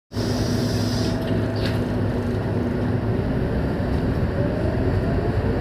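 Scania K230UB single-deck city bus with its diesel engine running, a steady low rumble, with a thin whine that rises in pitch from about four seconds in as it gathers speed.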